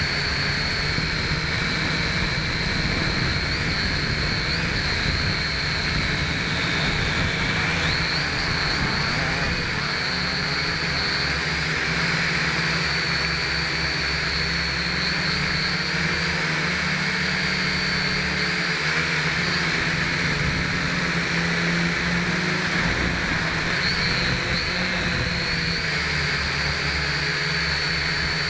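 Toy quadcopter's small motors and propellers whining steadily, the pitch wavering slightly as it flies.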